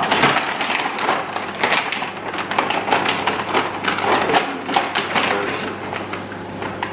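Dry dog biscuits and treats being scooped and dropped into a bowl, a busy run of small clicks, taps and rattles, over a low steady hum.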